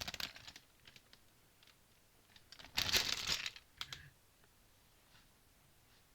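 Lego pieces and their plastic packaging being handled: a short burst of rapid plastic clicking and rustling about three seconds in, followed by a few small clicks.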